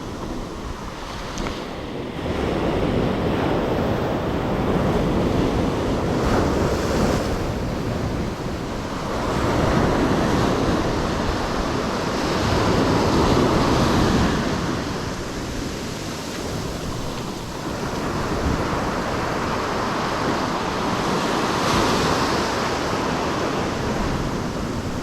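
Surf washing onto a beach, rising and falling in repeated swells, with wind rushing on the microphone.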